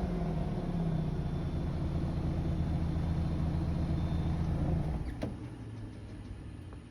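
Car engine running steadily. It dies away about five seconds in, followed by a single sharp click.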